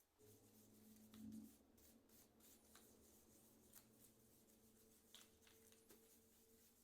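Faint handling sounds of keyboard parts being cleaned: light scattered clicks and rubbing over a low steady hum that starts just after the beginning and swells briefly about a second and a half in.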